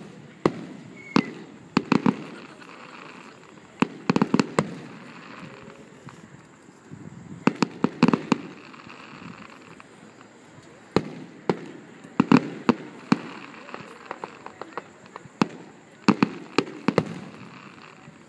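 A distant fireworks display: aerial shells bursting with sharp bangs, often several in quick succession, in clusters every few seconds, each cluster trailing off in a rumbling echo.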